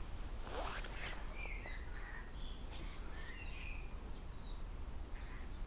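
A bird calling: a run of short, high, falling chirps, about three a second, with a few lower notes mixed in, over a steady low background rumble.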